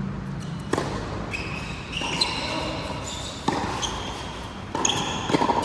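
Rubber-soled shoes squeaking on an indoor court floor in short high chirps, with a few sharp hits of a racket striking the ball: about a second in, again past three seconds, and a quick cluster near the end.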